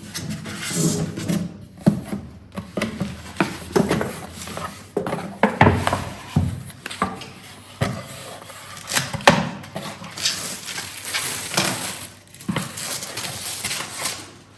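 Handling sounds from a new microwave and its parts: a string of light knocks, clinks and rubbing, irregular and spread over several seconds.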